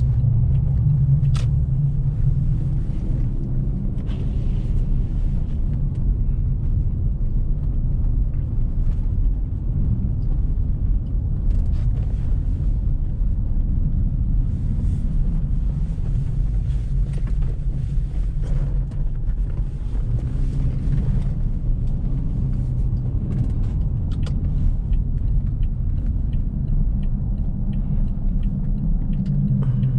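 Car being driven, its engine and tyres making a steady low rumble, with a few faint clicks and ticks scattered through it.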